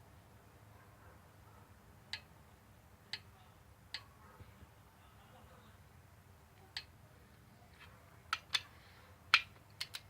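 Sharp metallic clicks, about nine, spaced a second or more apart at first and coming quicker and louder near the end: a click-type torque wrench breaking over as the cylinder head bolts on a Chevy 3.1 V6 reach their set torque of 33 foot-pounds.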